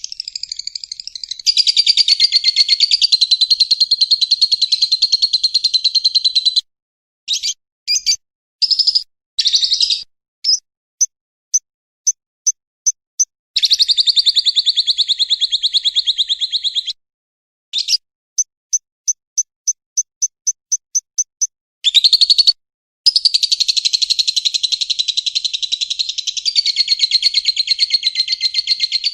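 Recorded cage-bird song played as a tutor track for songbirds: long, fast chattering trills that cut off and restart abruptly, with short bursts and two runs of evenly spaced chirps at about three or four a second in the middle.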